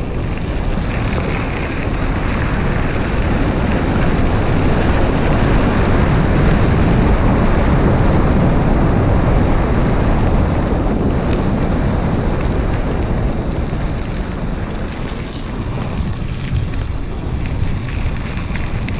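Wind rushing over the microphone of a cyclist's camera while riding, a steady roar of noise that swells toward the middle and eases a little near the end.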